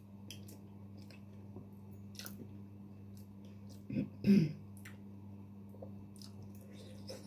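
A person chewing food close to the microphone, with small wet mouth clicks, over a steady low hum. About four seconds in there is a short, louder voiced sound.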